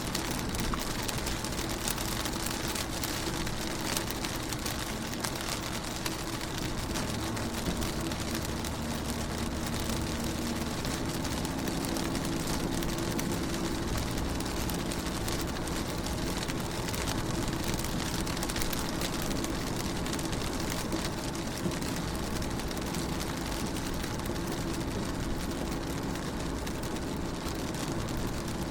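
Rain falling on a car window: many small drop ticks over a steady hiss, with a low steady hum underneath.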